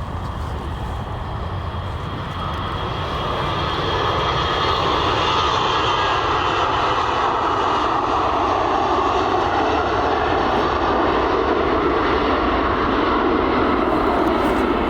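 Aircraft engines of a plane on the runway, a loud steady roar that swells over the first few seconds and then holds.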